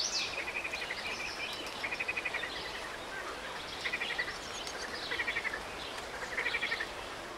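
A bird repeating a short, rapid trill every one to two seconds, with fainter higher chirps, over a steady background hiss of outdoor ambience.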